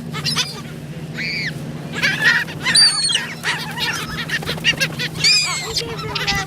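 A flock of gulls squawking over thrown bread, many short arched calls overlapping one another, over a steady low hum.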